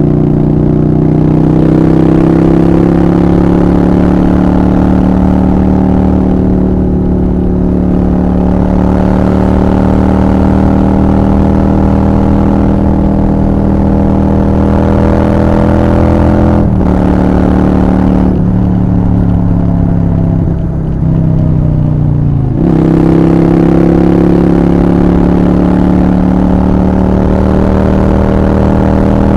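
Honda Shadow 750 Black Widow's V-twin engine running under way at steady revs. About two-thirds through the revs drop suddenly and slide down for a few seconds as the bike slows, then pick up again and hold.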